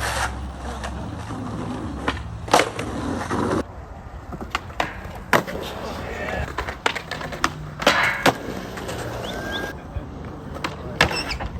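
Skateboards rolling on hard ground, with several sharp clacks and slaps of boards popping and landing through the stretch, the loudest about 2.5, 5.5 and 8 seconds in.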